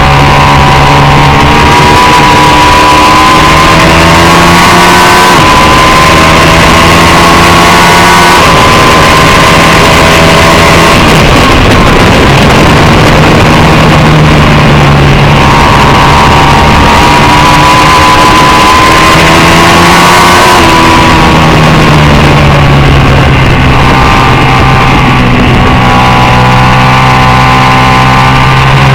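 A racing motorcycle engine at high revs. Its pitch climbs steadily and then drops sharply several times, about five seconds in, near eight seconds, around twenty seconds and more softly around eleven, as it goes through gear changes and off-throttle, over a loud rushing noise.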